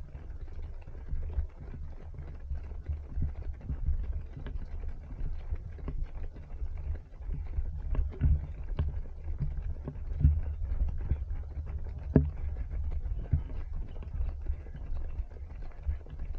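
A runner's footfalls at running pace, heard as a stream of short knocks over a steady low wind and body rumble on a body-worn action camera.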